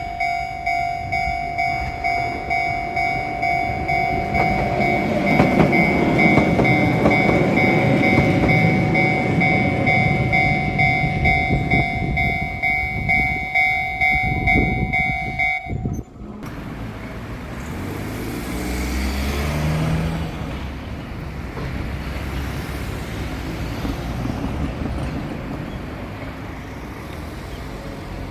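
Level crossing alarm bell ringing in steady pulses, about one and a half a second, as a Keihan electric train rumbles past. The bell cuts off suddenly about sixteen seconds in. Quieter train running noise carries on after it, with a brief rising motor hum.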